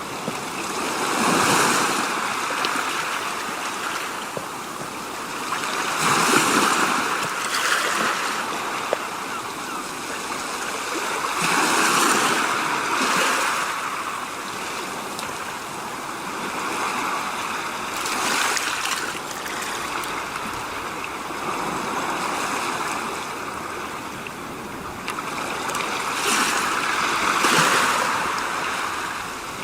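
Rushing water noise that swells and fades about every five to six seconds.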